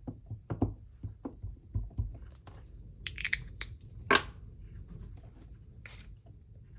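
Craft supplies being handled on a desk: a few light taps and clicks, a brief scratchy rubbing about three seconds in, and a sharper click just after four seconds, over a low steady hum.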